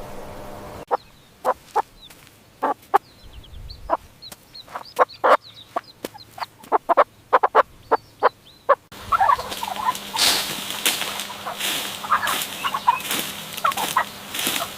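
Chickens clucking in short, sharp clucks, with faint high peeping from chicks. About a second in and again about nine seconds in the sound cuts abruptly to a new clip; the later one is noisier, with more chirping calls.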